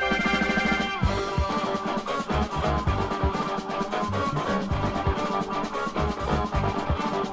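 Instrumental jazz-rock band playing, with drum kit and keyboard or mallet tones over a bass line.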